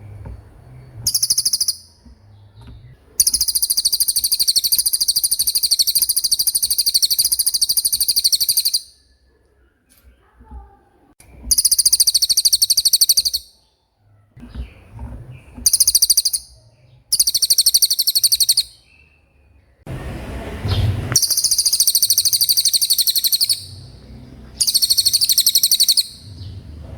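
Cililin songbird singing a fast rolling trill in repeated high bursts: a short burst about a second in, a long one of about six seconds, then several shorter bursts of one to two seconds with pauses between them.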